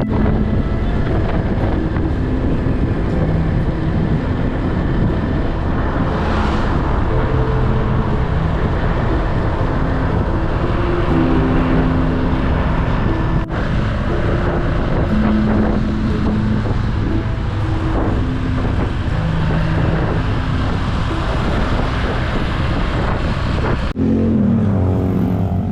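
A road vehicle driving along, with steady road noise and wind on the microphone.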